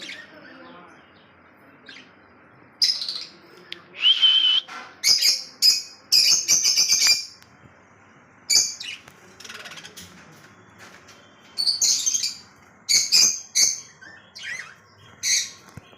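Pet lovebirds giving shrill, short chirps in bursts of a few at a time, separated by pauses, with one brief held whistle-like note among them.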